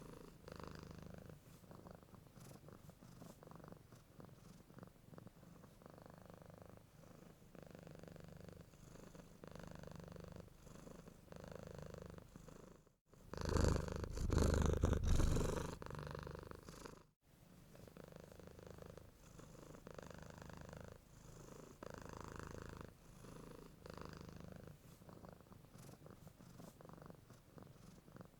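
Domestic cat purring steadily, the purr swelling and easing in cycles of about a second with each breath. About halfway through, the purr jumps for about four seconds to a much louder, closer stretch that starts and stops with abrupt cuts.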